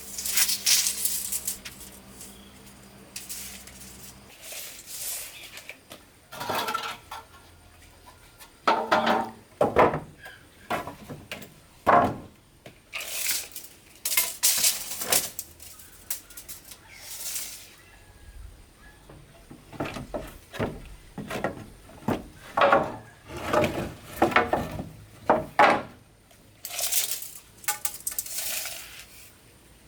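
Irregular clinks and clatters of hard objects being handled and knocked together, some with a short metallic ring.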